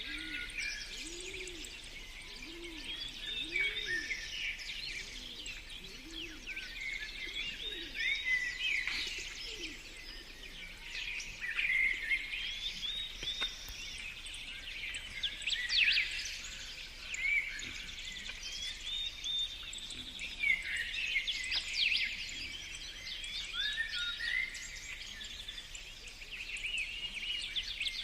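Several songbirds chirping and singing together in a dense, overlapping chorus of high twittering calls. A dove coos low underneath for the first few seconds.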